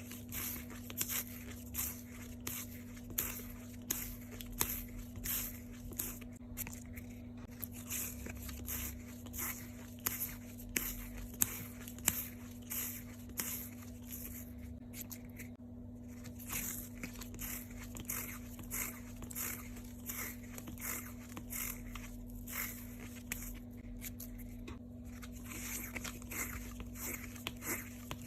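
Hands working washi tape and packaging: a rapid, uneven run of short crinkling, peeling and tearing sounds, over a steady low hum.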